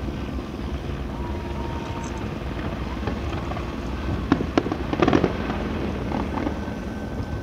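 Fireworks fired from the CN Tower: a few sharp bangs about four seconds in, then a brief cluster of crackling bursts a second later, over a steady low background rumble.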